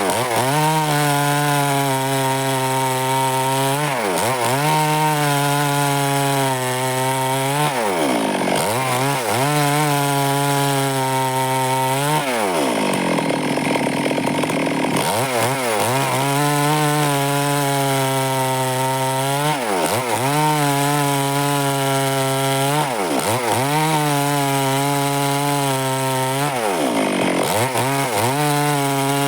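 Stihl two-stroke chainsaw running at high speed and cutting through wood. Its engine pitch drops and recovers several times as the chain loads up in the cut, with the longest drop about halfway through.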